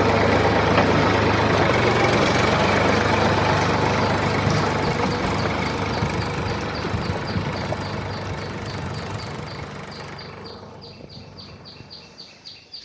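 A vehicle engine running steadily at idle, with a faint ticking about three times a second, fading away over the last few seconds.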